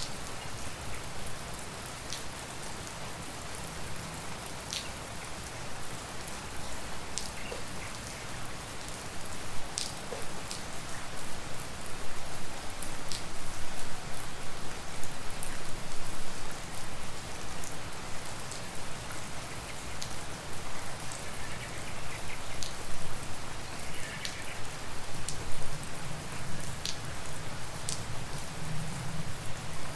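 Steady tropical rain falling, with sharp individual drips striking now and then. It gets a little heavier from a few seconds before the middle onward.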